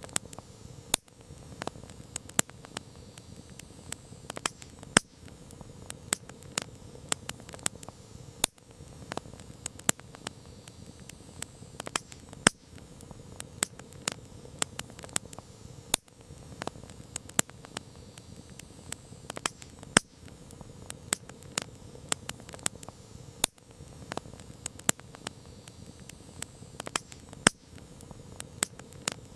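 Campfire crackling: irregular sharp pops and snaps of burning wood over a steady soft hiss of the flames. The bigger pops fall in a pattern that repeats about every four seconds.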